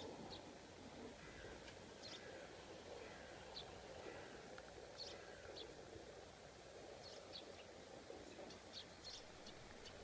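Faint outdoor hush with scattered short, high-pitched bird chirps, coming more often in the second half.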